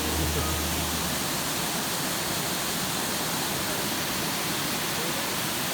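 Steady rush of water from a rainforest creek and waterfall.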